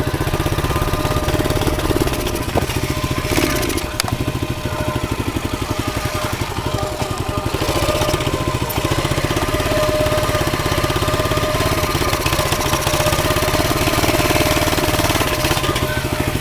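Pit bike's single-cylinder engine idling with a steady, rapid firing pulse, not sounding that great. The owner hopes the fault lies only in the duct tape and cloth packing stuffed into its muffler.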